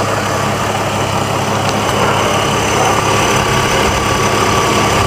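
Chevrolet Trailblazer engine idling steadily, with its belt-driven clutch fan spinning.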